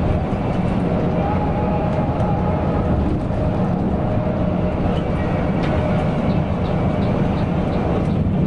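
Coach bus under way: a steady engine drone and road rumble.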